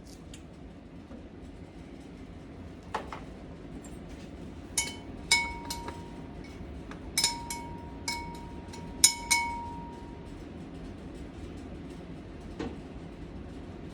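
Utensil clinking against a dish about eight times at uneven intervals, several strikes ringing briefly, over a low steady hum.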